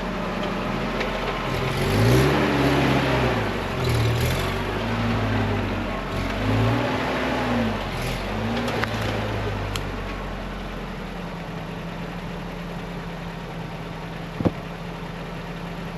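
Off-road 4x4's engine revving up and down several times in quick succession as the truck works over stumps and roots, then settling to a steady lower run. A single sharp knock sounds near the end.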